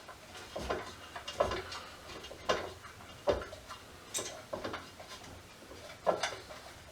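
A handful of light, irregular clicks and taps of small metal parts being handled while working the nut on a waterproof toggle switch.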